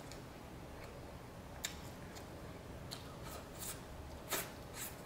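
Close-up mouth sounds of eating saucy barbecue ribs: a few short wet smacks and clicks from chewing and lips, spaced about a second apart.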